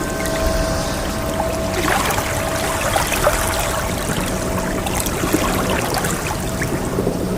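Ocean waves washing and trickling as a steady wash of water with fine splashes. In the first couple of seconds a ringing tone, struck just before, fades away.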